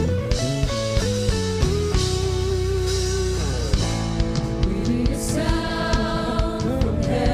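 Live worship band playing an instrumental passage: a held, wavering electric guitar melody over bass and drums.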